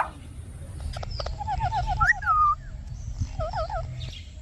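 Parrot vocalising: a quick warbling trill, then a louder call that falls in pitch, then a shorter wavering phrase, over a low rumble.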